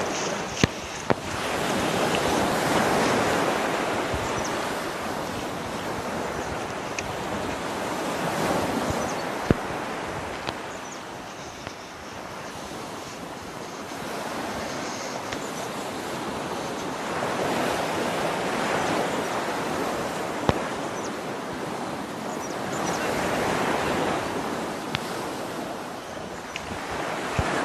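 Rushing water of a waterfall, a dense hiss that swells and eases every several seconds as wind gusts across the microphone. A few sharp clicks stand out, twice near the start and once about ten seconds in.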